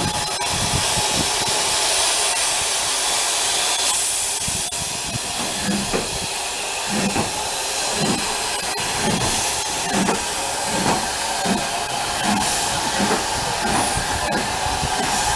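Heritage train running: a loud, steady hiss with low, regular thuds beating under it. The thuds come about once a second and quicken toward the end as the train picks up speed.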